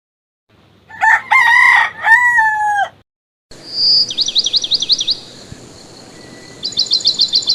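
A rooster crows once. Then a small bird gives two quick runs of high, rapid chirps, about seven a second.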